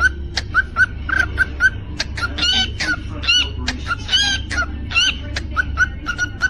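Cockatiel calling: a run of short, quick chirps, about three a second. In the middle these give way to a few longer, louder warbling whistles, then the quick chirps return.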